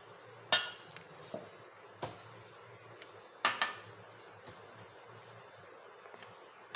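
Kitchen utensils and dishes clinking and knocking: about five scattered sharp clicks, as spoons and bowls are handled while ingredients go into a blender jar.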